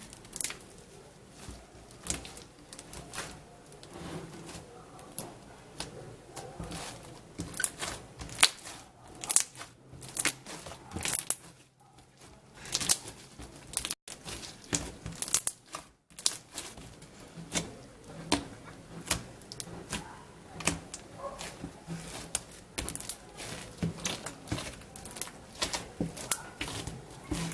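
Homemade slime packed with styrofoam beads being handled by hand, giving a string of irregular crackles, clicks and sticky pops.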